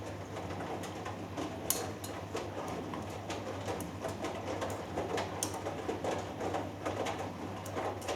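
Hoover Dynamic Next washing machine in the wash phase of a cotton cycle: the drum turns the wet laundry, with sloshing and churning over a steady motor hum and occasional light ticks.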